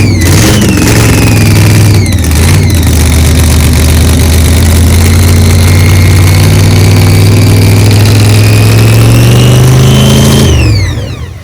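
A car engine under steady acceleration, its pitch slowly rising for about ten seconds, with a higher whine running along with it. Near the end the pitch falls away quickly as it lets off, and the sound drops off sharply.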